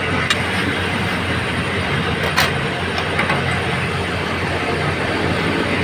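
Vacuum truck running steadily as its suction hose clears a storm drain of trash and mud, with a couple of brief sharp knocks.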